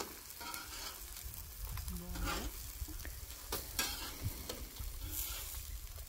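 Pupusas sizzling as they cook on a hot griddle, a steady frying hiss with scattered sharp taps and clicks.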